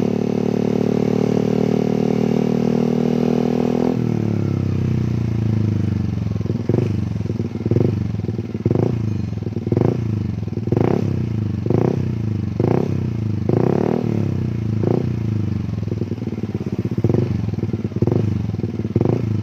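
Yamaha Aerox 155 VVA scooter's single-cylinder engine through a full aftermarket racing exhaust, held at high revs for about four seconds, then dropping to idle. It is then revved in short throttle blips about once a second, around a dozen times.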